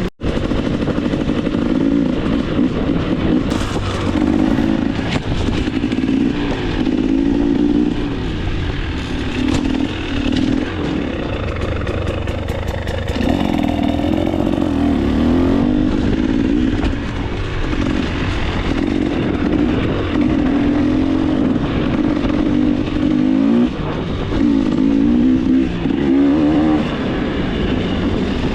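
KTM 300 XC-W's two-stroke single-cylinder engine running on trail, revving up and down with the throttle the whole way through, with some light clatter in the middle.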